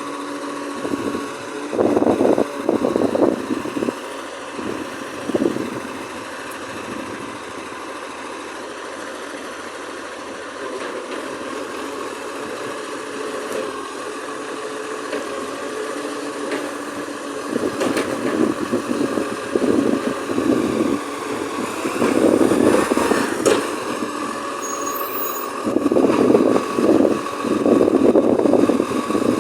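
Garbage truck engine running steadily, rising in louder rough surges several times.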